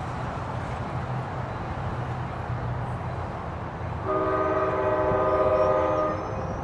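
Sounder commuter train passing with a steady rumble; about four seconds in, its air horn sounds one chord-like blast of about two seconds, the loudest sound here. A faint high wheel squeal begins near the end.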